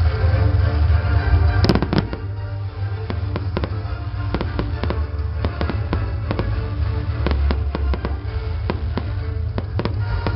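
A string of firecrackers going off in quick, irregular cracks over music with a heavy bass.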